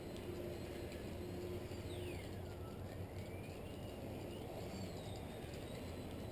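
Strong wind rumbling on the microphone, with the faint high whine of the model aeroplane's electric motor: about two seconds in the whine falls sharply in pitch and climbs back up, and it dips again briefly near the end.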